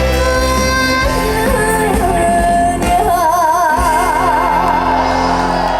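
A female trot singer sings live over band accompaniment. In the second half she holds a long note with wide, even vibrato.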